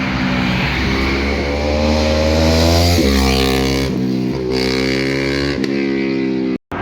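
Car engine and exhaust under hard acceleration, the pitch climbing, then dropping sharply and climbing again about three times as the car shifts up through the gears.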